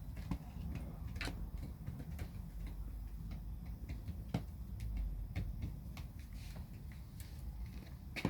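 Racing pigeons moving about: scattered, irregular sharp taps and clicks over a low steady rumble.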